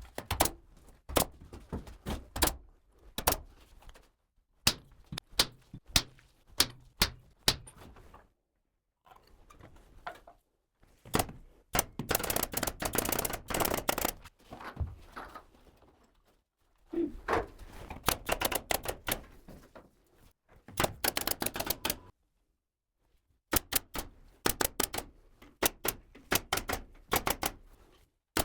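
Pneumatic nail gun firing in quick series of sharp shots into wood, with short pauses between runs and two longer stretches of dense, rapid impacts.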